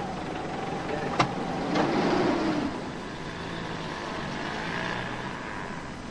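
Engine of an open jeep-style vehicle swelling in level as it pulls away, then running steadily as it drives off. Two short clicks sound a little after a second in.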